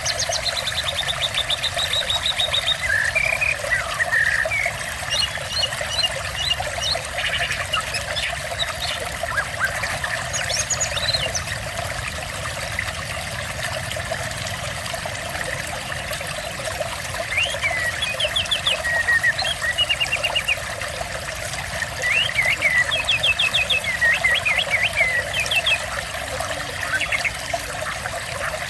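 Steadily running, trickling water with birds singing over it: bursts of quick high trills and chirps come and go, most busily in the second half.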